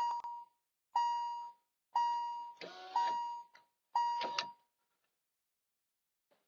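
An electronic beeper sounding five short, high beeps of the same pitch, one each second, with a brief lower sound sliding in pitch around the third beep.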